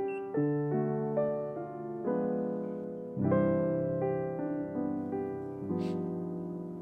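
Soft background piano music: chords and single notes struck and left to ring, with a stronger chord about three seconds in and the playing dying away near the end. A brief high click about six seconds in.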